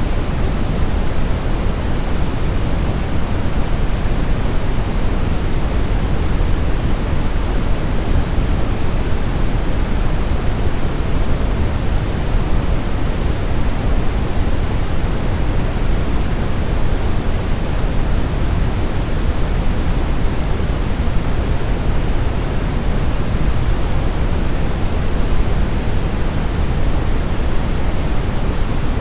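Brown noise: a steady, unbroken rushing hiss weighted heavily toward the low end, with no changes in level or texture.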